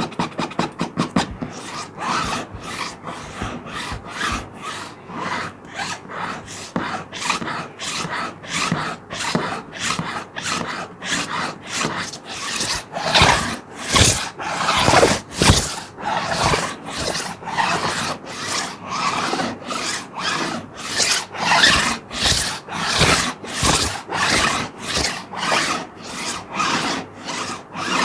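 A plastic sheet being scratched in a continuous run of scraping strokes, very quick for the first second or so, then settling to about two or three strokes a second.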